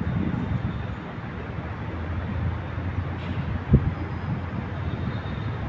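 Steady low rumble of city traffic, with one dull thump a little past halfway.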